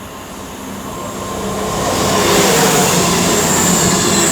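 Class 221 Super Voyager diesel-electric multiple unit coming through the station, its underfloor diesel engines and traction running. It gets louder over the first two seconds, then holds steady with a low hum and a high whine.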